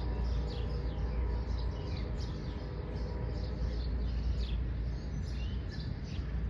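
Birds chirping, about two short high chirps a second, over a steady low rumble.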